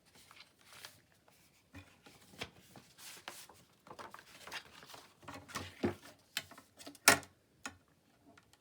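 Paper rustling and crinkling as stiff pages are handled, in irregular short scrapes with one sharp crackle about seven seconds in.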